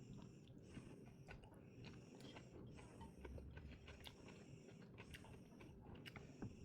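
A person chewing a mouthful of food, faint soft mouth sounds repeating about once a second.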